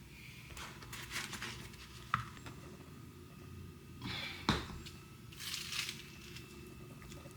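Crinkling and rustling in three short spells, with a sharp click about two seconds in and another at about four and a half seconds in.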